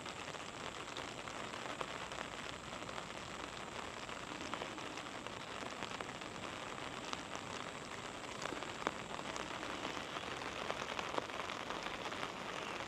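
Steady monsoon rain: an even hiss with a scattered patter of individual drops landing close by.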